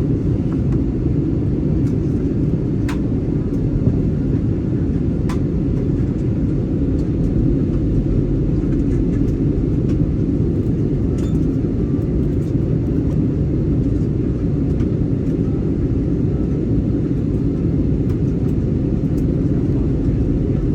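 Airbus A320 cabin noise from a window seat: the steady low rumble of the CFM56 engines and airframe, with a few faint clicks.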